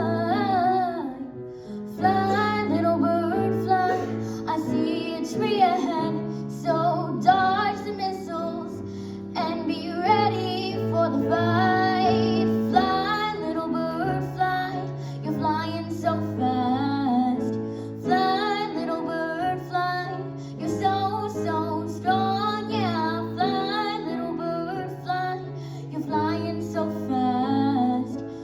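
Music: a female voice singing a slow song over piano accompaniment.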